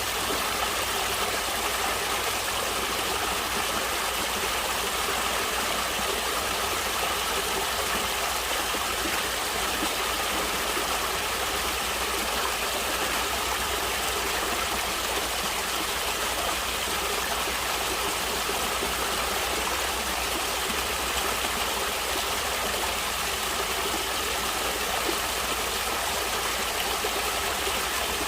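Natural running water: a stream flowing steadily, an even rushing wash with no breaks.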